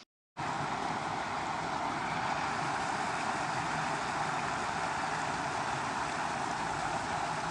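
Steady rush of flowing river water, swollen after rain, starting abruptly after a brief dropout.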